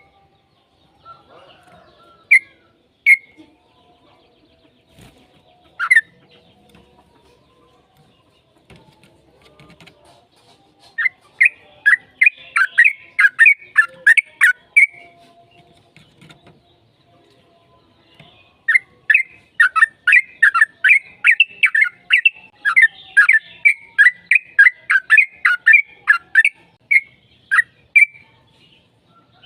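Yellow-vented bulbul singing: a few single notes in the first six seconds, then runs of quick repeated notes, about three a second, from about 11 to 15 seconds in and again from about 19 seconds nearly to the end.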